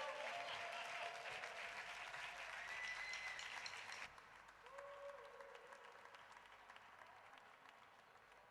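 Small audience applauding, with a few short calls from voices. The clapping drops off sharply about four seconds in and then fades out.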